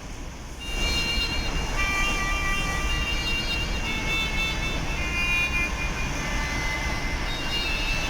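Train running: a steady rumble with several thin, high squealing tones that come and go.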